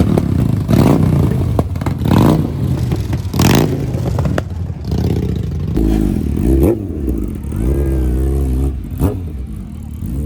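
Motorcycle engines revving in a series of throttle blips, then running with an engine note that wavers up and down.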